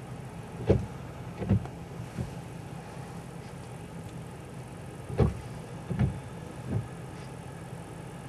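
Low, steady hum of a vehicle engine running, broken by five short dull thumps: two in the first second and a half, then three more between about five and seven seconds in.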